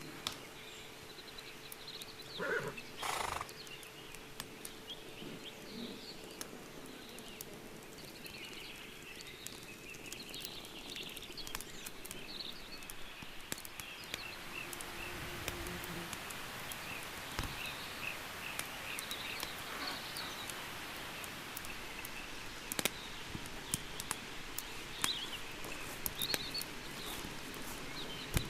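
Rural outdoor ambience: small birds chirping throughout, with scattered sharp clicks and a short loud animal call about three seconds in.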